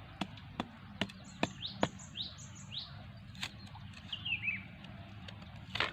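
Birds chirping, with three quick rising chirps close together in the middle and a short falling chirp later. Irregular sharp clicks and taps come throughout, the loudest a brief cluster near the end.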